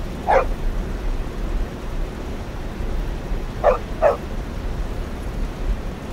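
Dog barking: three short barks, one near the start and two in quick succession about three and a half seconds later, over steady background noise.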